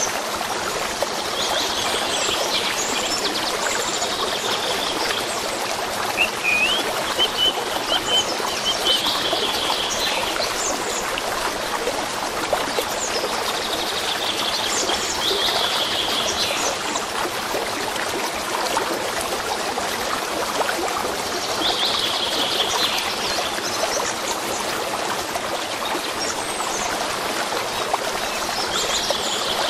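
A stream flowing steadily, with songbirds chirping in repeated bouts every few seconds.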